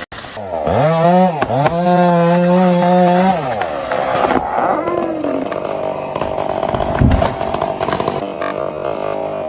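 Two-stroke chainsaw revving up, dipping briefly, then held at high revs for about two seconds before dropping back and running on more steadily. A low thud comes about seven seconds in.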